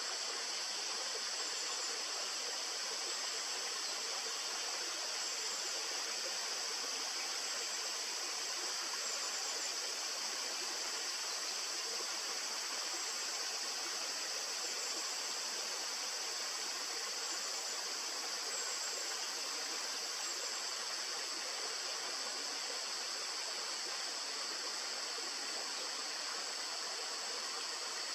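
Steady rush of flowing river water, unchanging throughout, with a constant high hiss above it.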